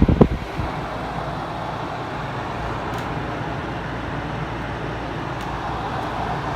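Haier HWR05XCK-L 5,000 BTU window air conditioner running on fan only, its blower making a steady even whoosh with the compressor not yet started. A few low knocks sound in the first half second.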